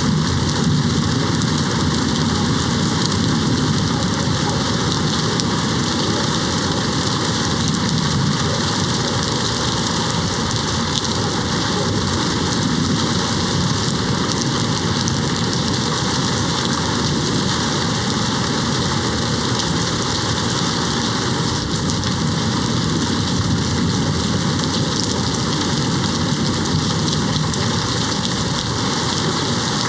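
Steady rain hitting a window, a dense even hiss, with a faint low rumble of distant thunder underneath at times.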